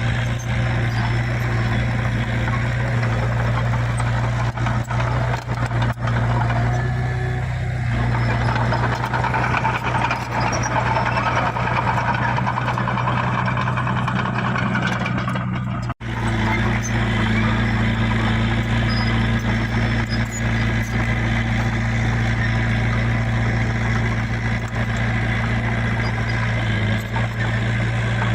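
Heavy diesel engine of earthmoving machinery running steadily, with a heavier rushing noise for several seconds before a momentary cut about halfway through.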